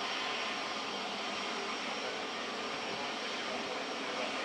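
Steady aircraft turbine engine noise, an even rush and whine with no clear rotor beat and no change in level.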